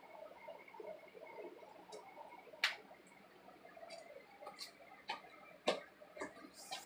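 Thick homemade slime being handled, giving scattered sticky clicks and pops, the loudest about two and a half seconds in.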